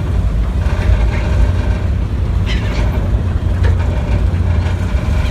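Steady low rumble of a ferry under way, engine and wind on the deck, with a bird calling about two and a half seconds in.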